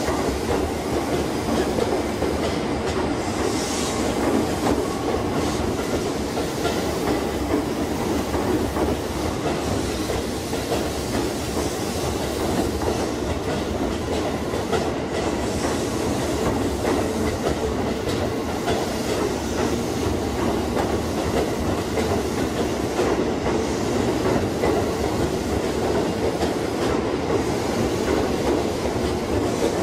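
JR East 211 series electric train running past on the rails, a steady, continuous noise of wheels on track.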